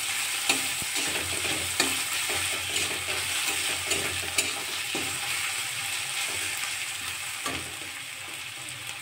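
Chopped onion and garlic paste sizzling in hot mustard oil in a kadai, being fried until browned. A steel spatula stirs them, scraping and clicking against the pan now and then, and the sizzle eases a little near the end.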